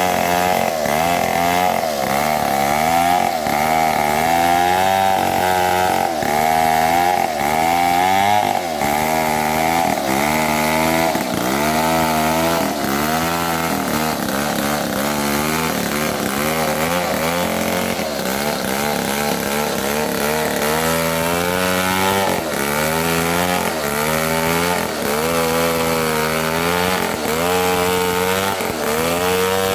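Two-stroke chainsaw cutting mahogany wood at high revs. Its engine pitch keeps sagging under the load of the cut and picking back up, roughly once a second.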